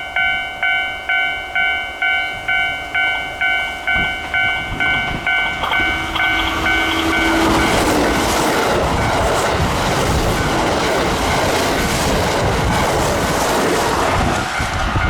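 A level-crossing warning bell rings in quick, even strokes, about three a second, then is drowned out about seven seconds in as a Kintetsu train passes close by, its wheels rushing and clattering over the rail joints.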